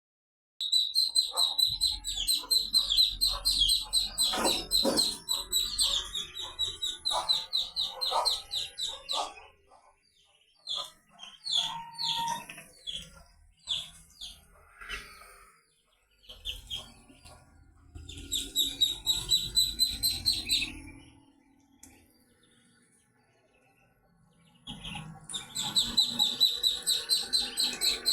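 A group of Muscovy ducklings peeping: rapid, high, repeated cheeps in dense runs, thinning out in the middle and dropping almost to quiet for a few seconds before starting up again near the end.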